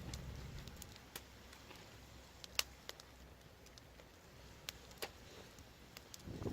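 Burning wood fire crackling: sparse, irregular sharp pops and snaps over a low rumble that eases after the first second.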